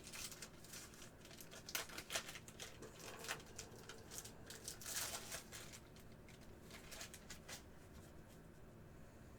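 Faint crinkling and crackling as trading-card packs and cards are handled: a dense run of short clicks and rustles that thins out after about six seconds.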